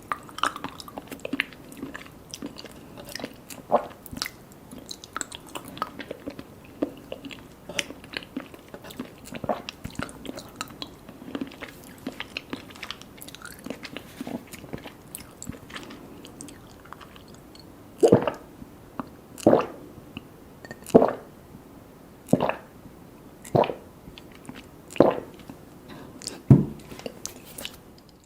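Close-miked chewing of mango mochi with popping mango boba: many small wet mouth clicks, then from about two-thirds through, a run of louder, evenly paced chews roughly every second and a half.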